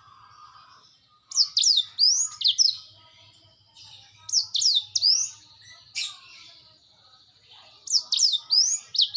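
Black-throated canary (blackthroat) singing in three bursts of quick, swooping whistled notes, with a sharp click about six seconds in.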